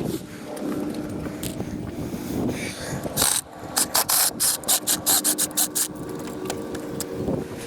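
Stainless steel Tapcon concrete screws being driven into a seawall: a steady mechanical hum with a run of sharp ratcheting clicks, about five a second, in the middle, as the screw binds in its hole.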